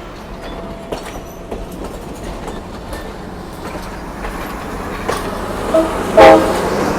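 Excursion train rolling out of the yard, its wheels clacking over the rail joints over a steady low engine rumble. A brief loud pitched sound comes about six seconds in.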